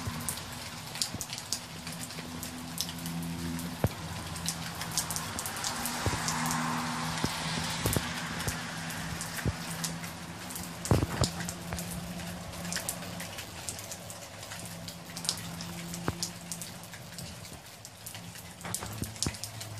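Heavy rain pouring down, with water streaming and dripping off a roof edge close by: a steady hiss dotted with many sharp drip and splash impacts, a few louder ones about eleven seconds in.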